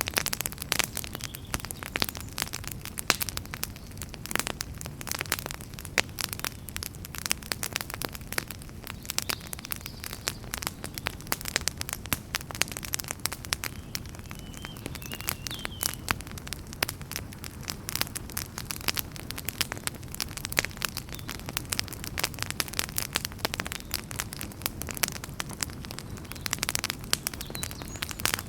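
Wood fire burning in a fireplace, crackling and popping in dense, irregular snaps over a steady low background noise of the flames.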